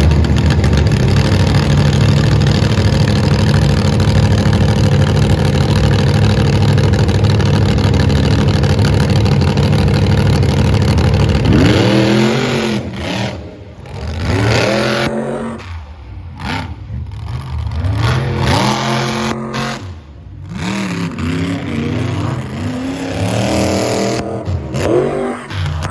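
Monster truck engines running at full throttle. About 11 seconds in, the steady sound gives way to repeated revving that rises and falls as the throttle is worked on and off.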